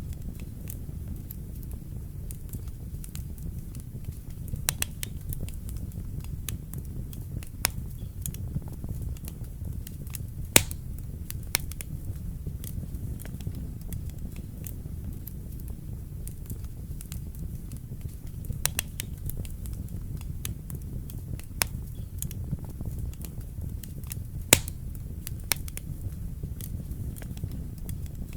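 Fire burning in a fireplace: a steady low rumble of flames with scattered sharp crackles and pops at irregular moments, the two loudest about ten and twenty-four seconds in.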